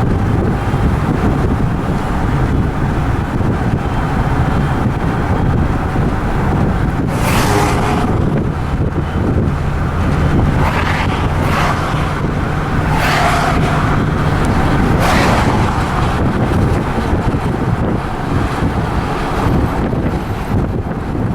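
Twin-turbo Dodge Challenger SRT8 Hemi V8 running steadily under way, with wind buffeting the microphone and a few brief rushes of hiss.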